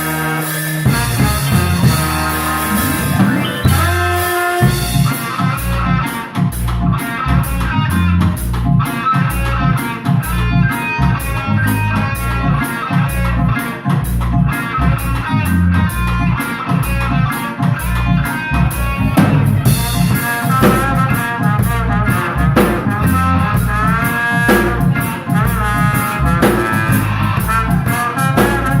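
Live instrumental band playing: a held chord for the first few seconds, then a steady groove with a driving beat and a moving low line underneath.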